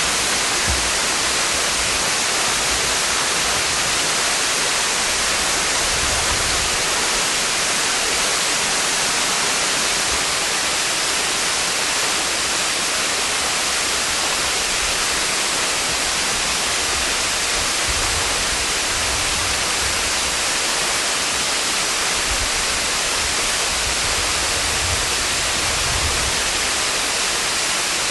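Steady rushing of Hossawa Falls, a waterfall partly frozen over in winter: an even, unbroken hiss of falling water, strongest in the high range.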